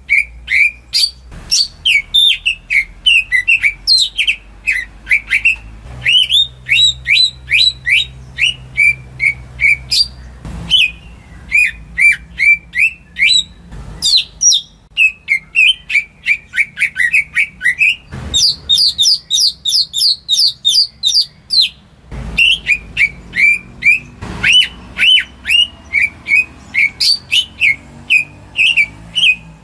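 Green leafbird (cucak ijo) singing a long, rapid song of sharp whistled chirps, several notes a second, in changing phrases with brief breaks between them.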